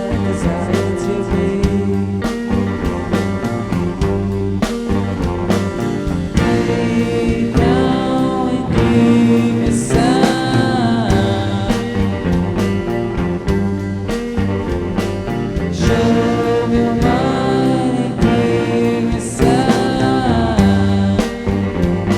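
Rock band playing a psychedelic rock song: electric guitar, bass and drums in a steady beat, with a pitched line that slides up and down a few times.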